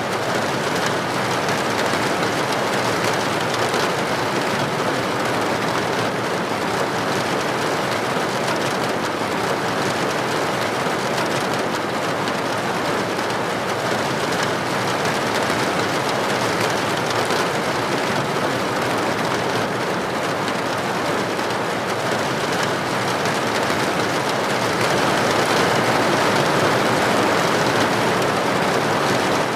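Steady heavy rain falling on a window or roof, a dense even hiss of drops.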